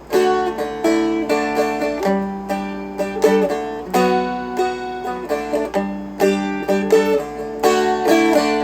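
Seagull Merlin M4, a four-string dulcimer-style instrument, flatpicked in a steady rhythm: single notes and chord shapes struck several times a second and left ringing into one another.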